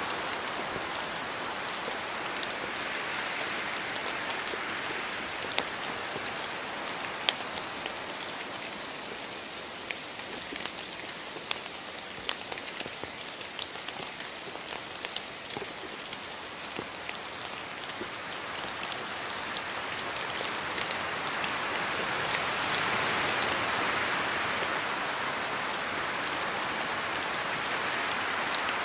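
Steady rain falling, with many individual drops ticking sharply on hard surfaces; it swells a little heavier in the last third.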